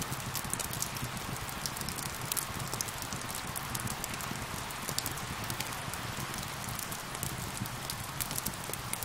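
Steady rain mixed with a crackling wood fire, with frequent small sharp pops and crackles over the even rain hiss.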